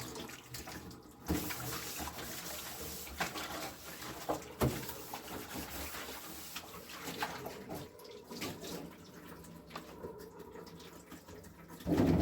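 Water running and splashing into a sink or basin, with a few sharp knocks and a louder clatter near the end.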